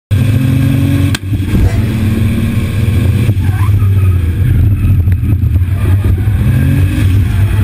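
Turbocharged BMW E36 drift car's engine running loud and hard under throttle, heard from inside the caged cabin, with a brief drop in level about a second in.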